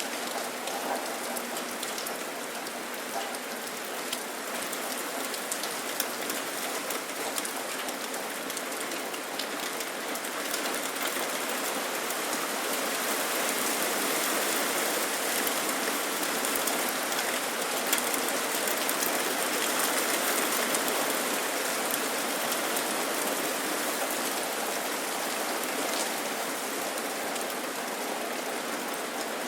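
Steady rain falling and pattering on surfaces, with scattered drop ticks, swelling a little in the middle and easing slightly near the end.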